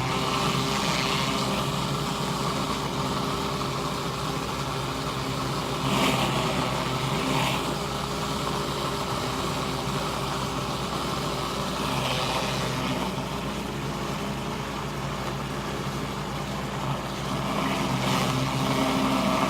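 Pressure washer engine running steadily under a hiss of high-pressure water, which swells briefly a few times as the surface cleaner works the concrete.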